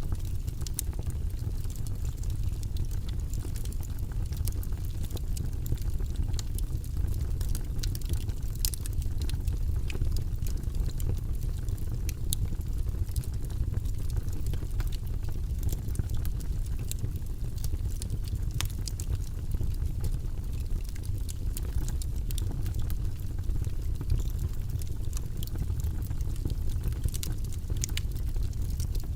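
Wood logs burning in a fireplace: a steady low rumble of the fire with frequent sharp crackles and pops from the burning wood.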